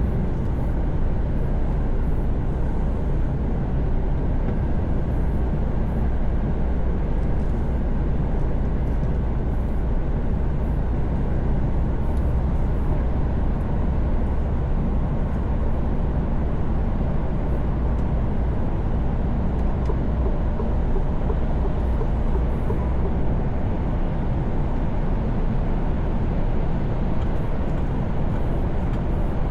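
Mercedes-Benz Actros truck's diesel engine droning steadily with tyre and road noise at motorway speed, heard inside the cab as a constant low rumble.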